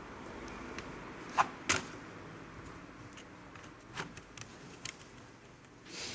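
Two sharp clicks close together about a second and a half in, then a few fainter clicks and a brief rustle near the end, typical of small hard plastic and metal laptop parts being handled and set down.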